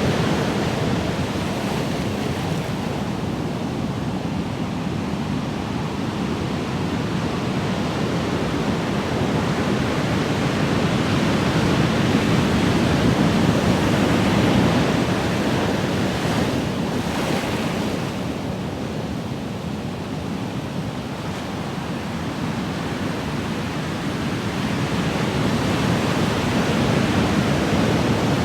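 Ocean waves washing onto shore, a continuous surf that swells and ebbs slowly, with one brighter, hissing wash about halfway through.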